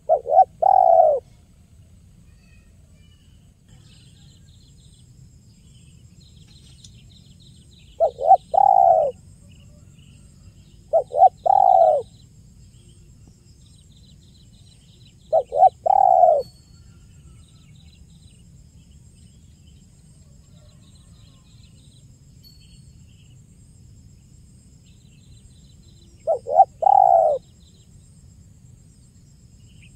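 Spotted dove (tekukur) cooing: five phrases several seconds apart, each of two short notes followed by a longer one. Faint twittering of small birds and a steady thin high tone run behind.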